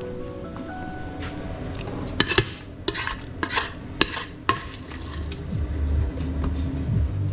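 A utensil stirring and scraping through burrito filling in a pot, with several sharp clinks of metal against the pot from about two seconds in.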